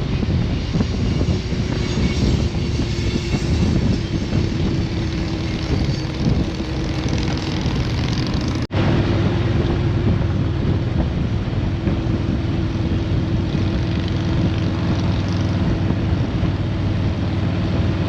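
Motorcycle riding along at a steady speed, the engine running under loud wind and road noise. The sound cuts out for an instant about halfway through, then carries on with a steadier engine hum.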